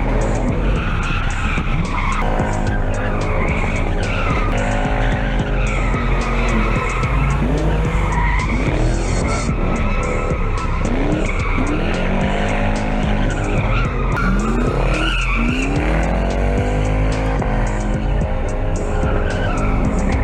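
Lexus SC400's 1UZ-FE V8 revving up and down repeatedly while the tires squeal and skid through a drift.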